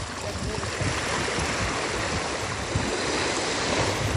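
Steady rush of water that swells in the middle, over an uneven low rumble of wind on the microphone.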